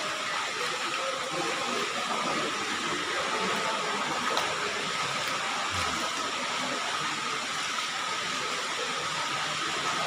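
Steady rush of falling water from the waterfall, an even hiss with no breaks.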